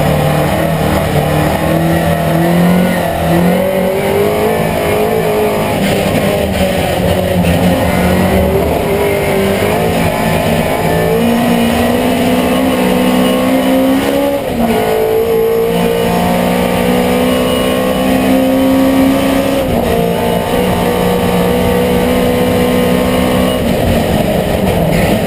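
Racing Mini Miglia's 1460cc A-series engine with a KAD 16-valve head, heard from inside the cockpit, pulling hard under full throttle. Its note climbs in long, steady pulls, broken by sudden drops in pitch at upshifts about two-thirds of the way in, again a few seconds later, and once more near the end.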